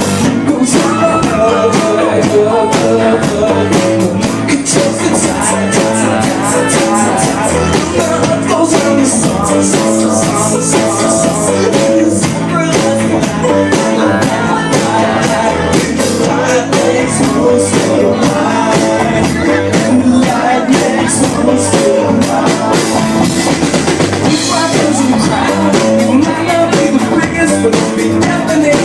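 Live band performing, heard loud through a phone microphone: a steady drum beat with bass and keyboards, and some singing.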